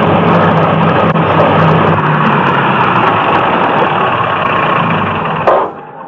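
A motor vehicle's engine running loudly and steadily, then cutting off suddenly with a short sharp knock near the end.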